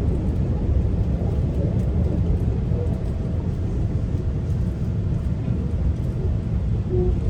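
Steady low rumble of a moving commuter train heard from inside the passenger coach: wheels running on the rails, with a faint thin hum coming and going above it.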